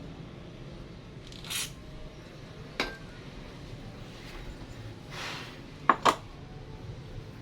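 Aerosol spray can giving two short hissing sprays, the second longer and softer. Between and after them come a sharp click and then two quick sharp clicks from the can or tools being handled.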